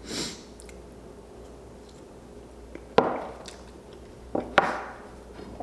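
Three sharp knocks or clicks during eating: one about three seconds in, the loudest, and two close together near the end, after a short breathy rustle at the start.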